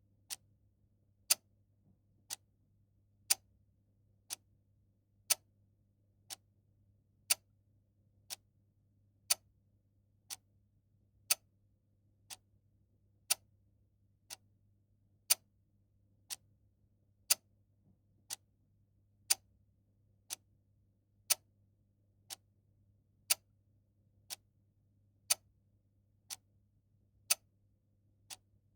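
Clock ticking once a second in an even tick-tock, a louder tick alternating with a softer tock, over a faint steady low hum.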